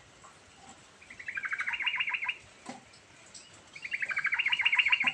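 Yellow-vented bulbul singing: two fast, trilled phrases of quick repeated notes that grow louder, one about a second in and one near the end.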